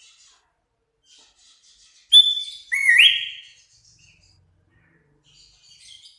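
Sooty-headed bulbul singing: faint chattering notes throughout, and about two seconds in two loud, clear whistled notes, the second starting lower and stepping up in pitch before it is held.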